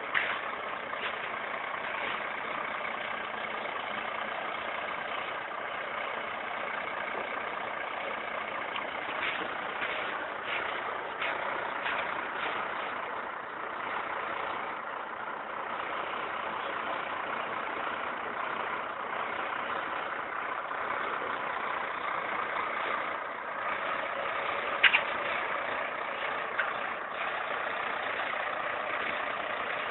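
Tractor diesel engine running steadily at a constant speed, with one sharp click about 25 seconds in.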